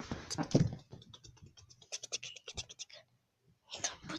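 Scratching and rustling close to the microphone, with a quick run of sharp scratchy clicks about two seconds in.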